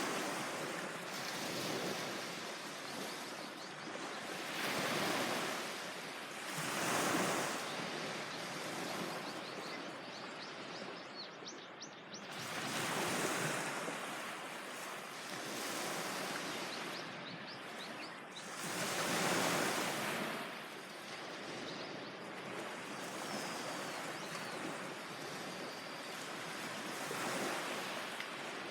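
Ocean waves breaking on a beach, the surf swelling and falling back every few seconds.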